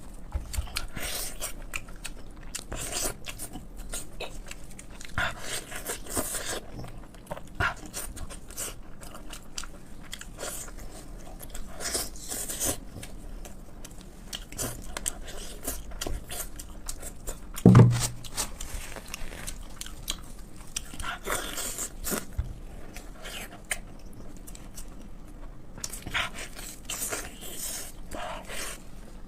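Close-miked eating of braised pig head dipped in sauce: repeated bites, crunches and wet chewing. A single loud, deep thump comes about 18 seconds in.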